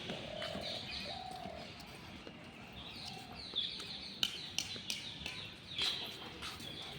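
Birds chirping and calling in the open air, with several short, sharp chirps standing out between about three and six seconds in.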